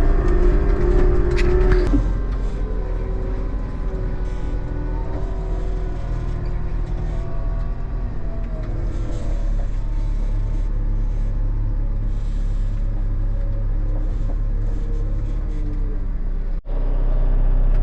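Tractor engine running steadily while driving on the road, heard as a constant low rumble inside the cab. There is a brief cut-out near the end.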